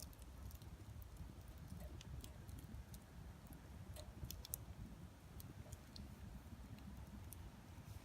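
Wood campfire crackling faintly, with scattered irregular pops and snaps over a low steady rumble.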